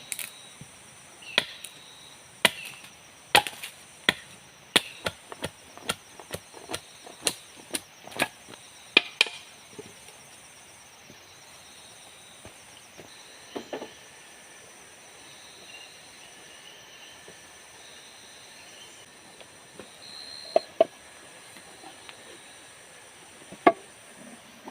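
Wood being chopped with a blade: a run of sharp strikes, one or two a second, for about the first nine seconds, then a few scattered strikes. A steady high-pitched insect drone sits behind them.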